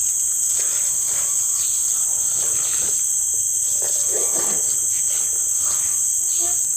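Insects in the surrounding vegetation making a steady, high-pitched continuous drone that never lets up.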